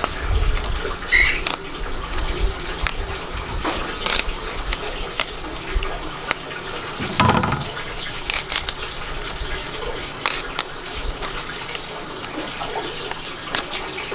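Water running and splashing, with scattered clicks and knocks and a dull thump about seven seconds in.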